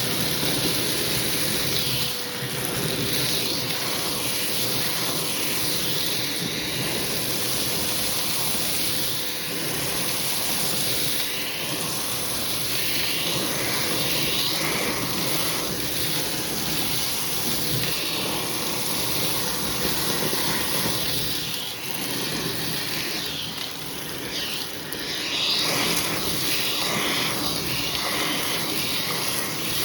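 Hoover vacuum cleaner running steadily, sucking through a hose tool over a shag rug, with a faint motor whine. The rushing suction rises and dips slightly as the tool is worked.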